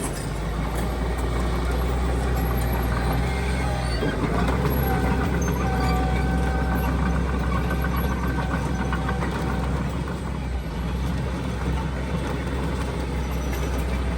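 Diesel engine of heavy earthmoving machinery running steadily, with a thin whine joining from about four seconds in.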